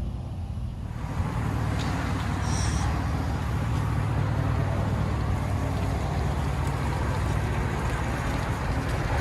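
2006 Chevy Tahoe's 5.3 L V8 on straight-piped true dual exhaust, heard from inside the cabin: a steady low drone that grows louder about a second in and then holds.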